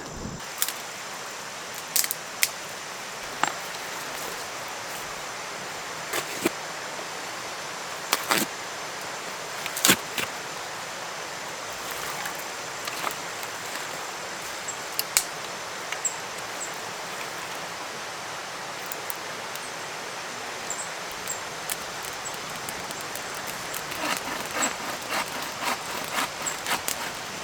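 Dry sticks and twigs snapping and cracking as firewood is gathered and broken, in sharp single cracks every second or two, then a run of quick crackles near the end. The cracks sit over the steady rush of a creek.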